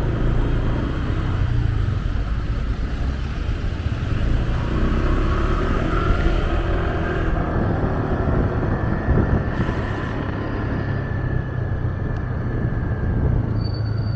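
Motorcycle riding in city traffic: steady engine and road noise under a heavy low rumble, with a faint whine that drifts in pitch through the middle.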